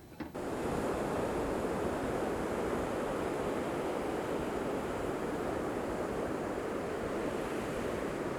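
Steady rushing of ocean surf, starting abruptly just after a quiet moment and holding even throughout.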